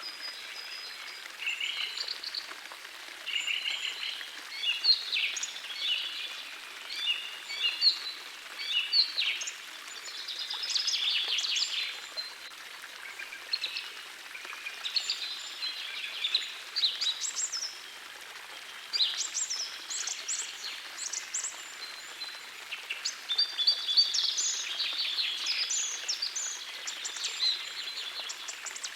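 Songbirds singing in short, varied phrases over the steady rush of a gentle forest stream, with a few brief lulls in the song.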